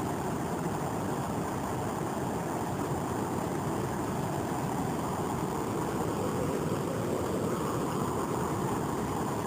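Steady rush of a large waterfall, an even, unbroken noise that starts suddenly.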